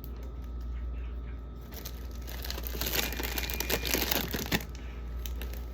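Packaging crinkling and rustling as a bag of sugar snap peas is handled and sorted, busiest around the middle.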